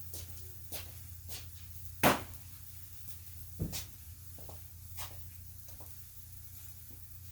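A few scattered clicks and knocks of things being handled, the loudest a sharp knock about two seconds in and a duller thud about a second and a half later, over a steady low hum.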